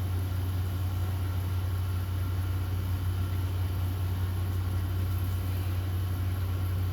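Steady low hum that does not change, with no other distinct sound over it.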